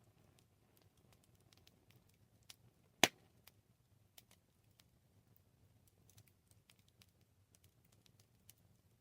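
Campfire crackling: scattered small pops and ticks of burning wood, with one sharp, much louder pop about three seconds in.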